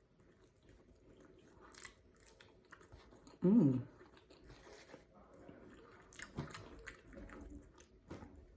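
Close-up chewing and mouth sounds of someone eating a red hot sausage: faint, irregular wet clicks and smacks. About halfway through there is one brief, louder vocal sound with a gliding pitch.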